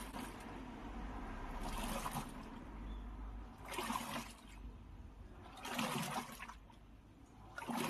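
Top-loading washing machine on a wash test: water pours and sloshes in the tub in surges about every two seconds as the pulsator turns forward and then in reverse.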